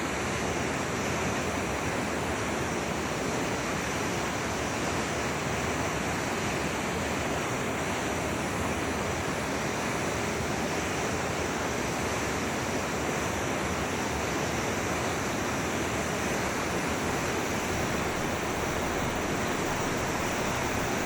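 Forest stream flowing with a steady, even rush of water.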